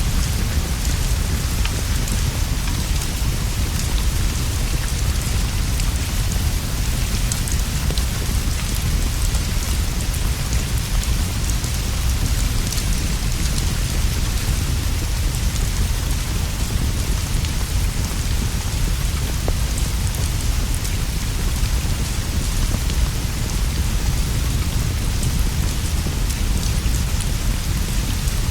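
Steady rain falling on leaves and a straw roof, with a constant deep rumble underneath and a few faint pops from a crackling fire.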